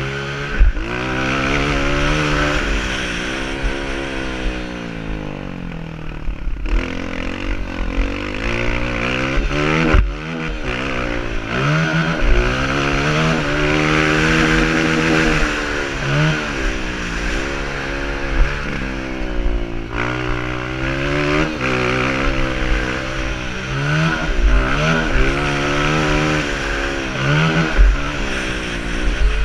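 Honda CRF 230 dirt bike's single-cylinder four-stroke engine revving up and backing off over and over as it is ridden hard around a motocross track, over a steady rush of noise, with a few sharp knocks.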